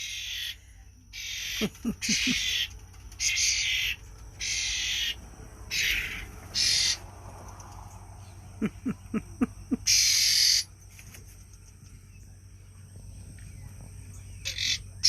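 Young hand-raised wild birds giving harsh, hissy begging calls, each about half a second long, repeated about eight times at uneven intervals. Two quick runs of short low notes come in between.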